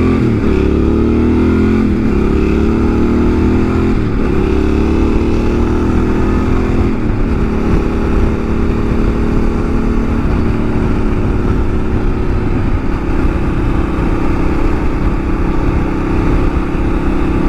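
Yamaha Ténéré 700's parallel-twin engine pulling away and shifting up through the gears, its pitch climbing and dropping back about five times in the first ten seconds, then running at a steady cruise.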